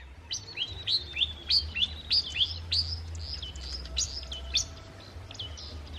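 A songbird singing a rapid run of short, sharply falling whistled notes, about three a second, over a low steady rumble.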